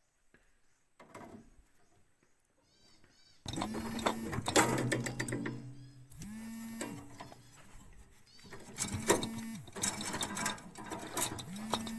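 Small electric motor run in four short bursts, each spinning up and winding down, with clicks between them.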